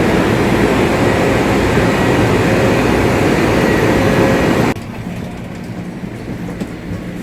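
Steady rushing hum of a high-speed electric train standing at the platform, with faint steady tones in it. About two-thirds of the way through it cuts off suddenly to a quieter steady hum.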